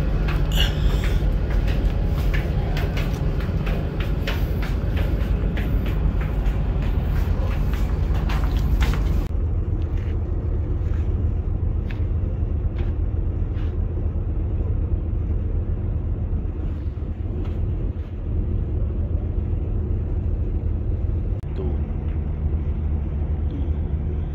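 A car ferry's diesel engines drone steadily and low. Many short clicks and knocks sound over the drone for the first nine seconds or so.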